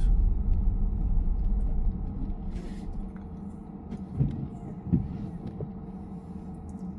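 Road rumble inside a car's cabin from tyres on wet city streets, dying down about two seconds in, with a couple of soft knocks near the end.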